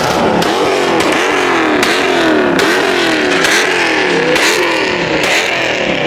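Car engine revved hard over and over, each rev rising in pitch and dropping back in quick succession.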